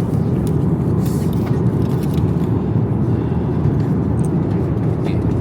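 Steady, loud roar of an Airbus A350 airliner cabin in cruise: engine and airflow noise heard from an economy seat.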